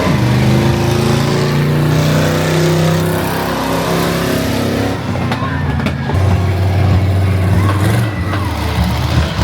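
Monster truck engine running loudly and revving, its pitch rising and falling, with a brief dip about five seconds in before it picks up again.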